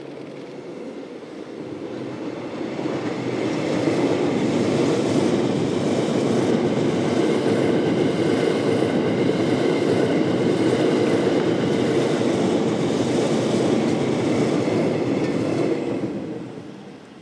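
E001 series 'Shiki-shima' cruise train passing close by. The rolling noise of its cars on the rails builds over the first few seconds, holds steady while the train runs past, then drops off suddenly about 16 seconds in as the last car clears.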